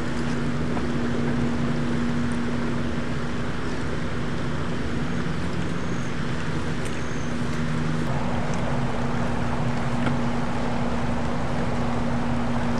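A steady low hum under a constant rushing noise.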